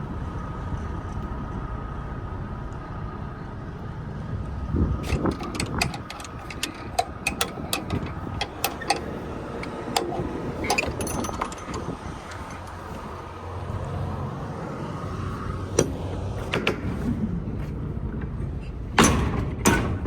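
Semi-truck diesel engine running steadily under a faint high steady tone, with a string of sharp clicks and clanks about five seconds in and another burst near the end.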